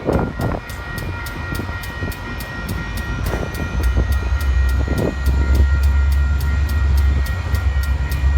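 A train passing close by, its deep rumble growing louder about four seconds in, with a faint rising whine.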